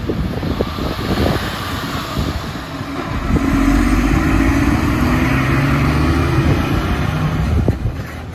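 A heavy truck's diesel engine pulling past, its engine note growing loud about three seconds in, holding steady, then falling away near the end.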